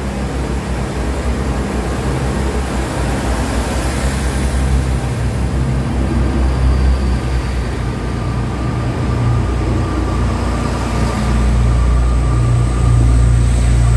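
Pair of Class 158 diesel multiple units pulling away, their underfloor diesel engines running under power and growing louder.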